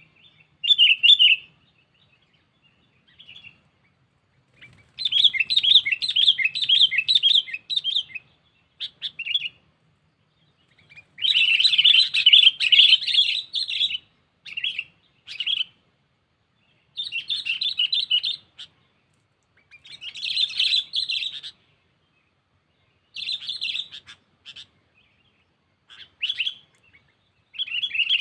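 Sooty-headed bulbul (kutilang) calling in repeated bursts of rapid, bright chattering notes, each burst lasting from half a second to about three seconds with short pauses between. These are its challenge calls to a rival, used to lure wild bulbuls.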